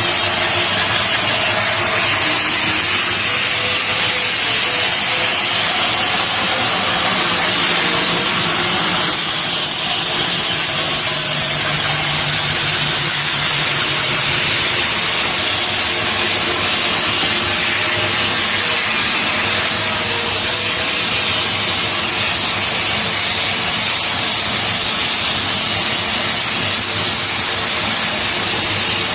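Woodworking machinery running steadily: a loud, even hiss over a low machine hum, with a low buzzing tone added for a few seconds near the middle.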